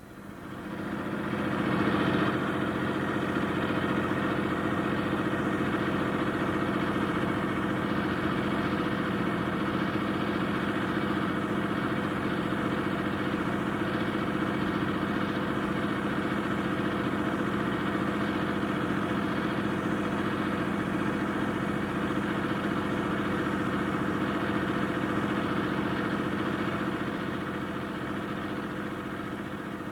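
An engine running steadily, fading in over the first couple of seconds and fading out near the end.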